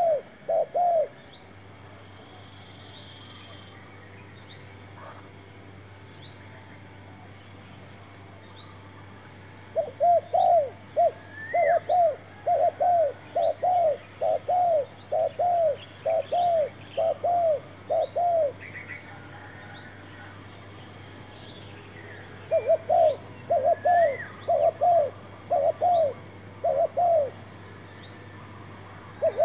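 Spotted dove cooing in long runs of repeated low notes, about two notes a second. There are two long runs, in the middle and near the end, with faint high chirps from small birds in between.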